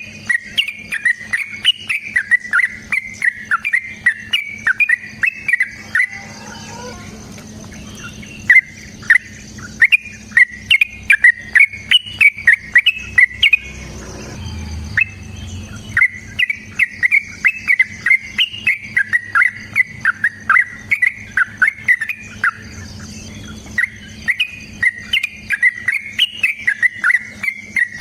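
Yellow-vented bulbul (trucukan) singing long, rapid runs of sharp chattering notes in bouts of several seconds, broken by short pauses of one to two seconds.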